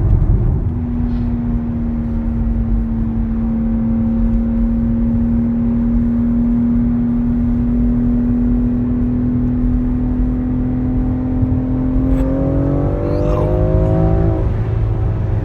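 BMW X4 M Competition's 3.0-litre twin-turbo straight-six running at a steady pitch over low road rumble, then revving up as the car accelerates about twelve seconds in, and easing off near the end.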